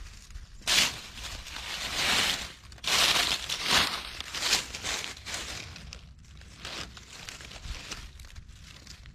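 Rustling and crunching of dry plant material being handled, in several irregular bursts over the first few seconds, then fainter.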